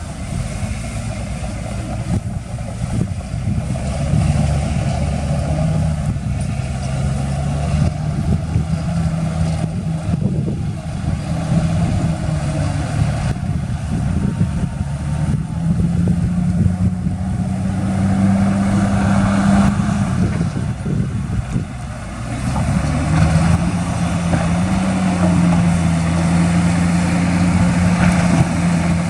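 Heavy diesel engine of earthmoving equipment running under load, its engine speed rising and falling, with a dip a little past two-thirds of the way through before it climbs again.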